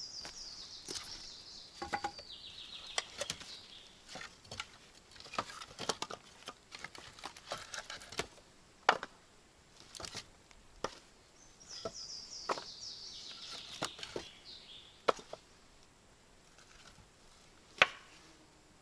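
A small songbird sings a short descending trill twice, the second about halfway through, among scattered sharp clicks and knocks.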